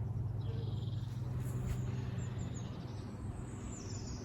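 Small garden birds chirping with short, high whistles, one sliding down in pitch near the end, over a steady low rumble.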